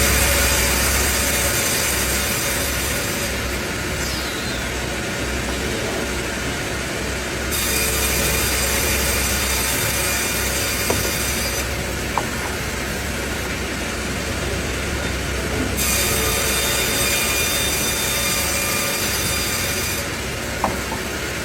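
Sawmill saw cutting lumber from a log in repeated passes: three cuts of about four seconds each with a bright, whining hiss, and quieter stretches between them. A steady low machine hum runs underneath.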